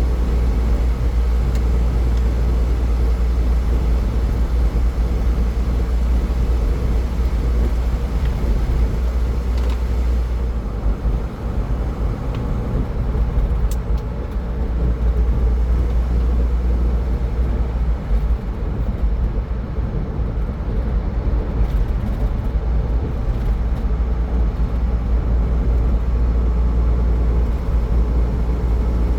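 Car driving at highway speed: steady road and tyre noise with a strong low rumble.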